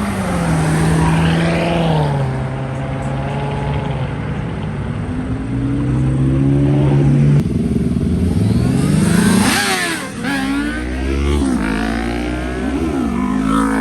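Loud car engine revving. It holds a steady note, climbs sharply about two-thirds of the way in, then gives several quick revs up and down.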